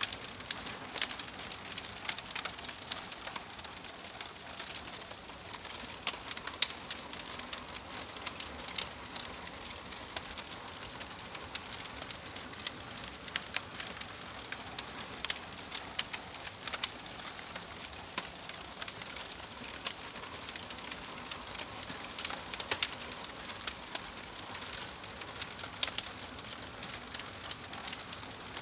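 Fire crackling: a steady hiss with frequent, irregular sharp pops and snaps.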